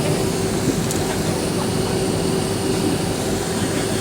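Steady cabin noise of an Avro RJ-85 with its four turbofan engines running, an even rush with a constant hum underneath.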